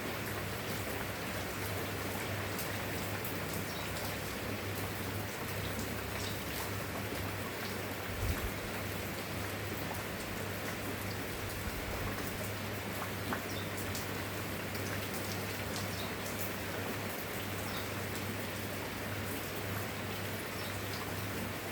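Steady rainfall with many small drop ticks, over a low steady hum. There is a brief low thump about eight seconds in.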